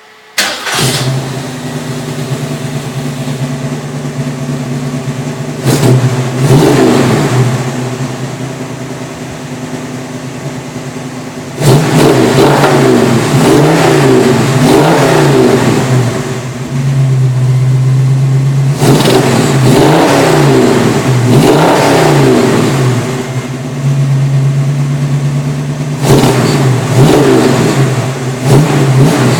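1966 Ford Mustang's 302 V8 running through a Magnaflow exhaust. It starts up about half a second in, idles, and is then revved in several bursts of quick blips, falling back to idle between them.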